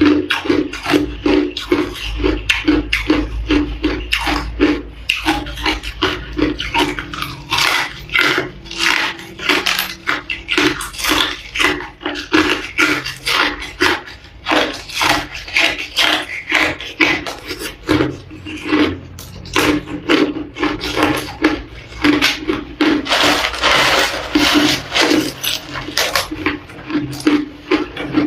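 Ice being chewed and crunched, close to the microphone: rapid, irregular crunches, a few a second, that keep going without pause.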